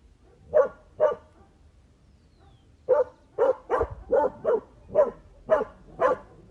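A dog barking: two barks, a pause of about two seconds, then a quick string of about eight more barks.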